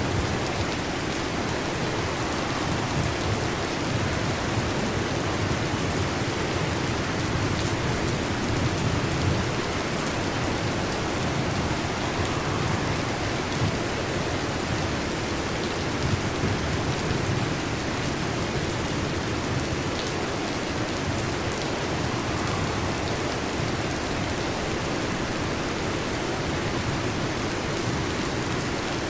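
Heavy rain falling steadily on a metal roof, with low thunder rumbles rising and fading now and then in the first part.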